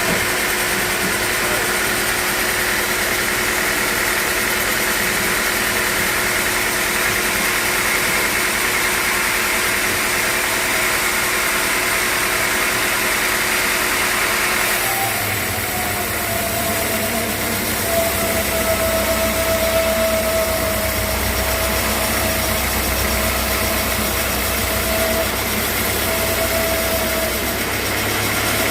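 Sawmill machinery running steadily with an engine-like drone. About halfway through the sound changes to a deeper rumble with a steady whine on top.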